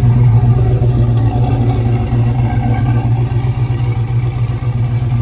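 Supercharged 416-cubic-inch V8 idling steadily at operating temperature with the AC on full blast, a nasty-sounding, aggressive idle.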